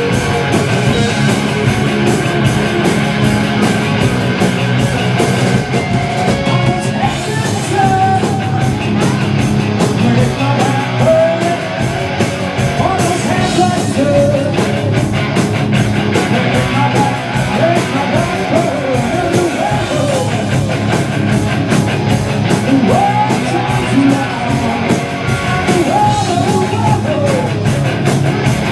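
Live rock band playing loud through Mesa Boogie amplifiers: electric guitar, bass and a steady drum beat, with a singer over most of it. Caught on a camcorder's built-in microphone close to the speakers in a small room.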